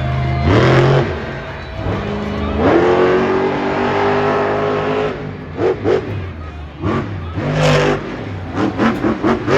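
Monster truck engine revving hard. It climbs in pitch twice and holds high revs, then gives a run of short, sharp throttle blips that come faster toward the end.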